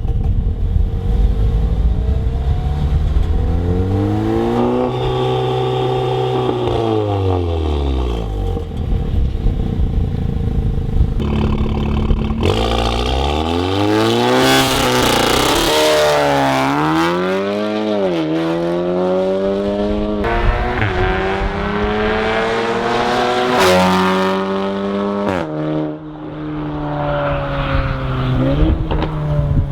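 Audi S3 8V's turbocharged 2.0-litre four-cylinder through an Armytrix valved exhaust. It revs up and back down once, then accelerates hard, the pitch climbing and dropping sharply at each of several gear changes.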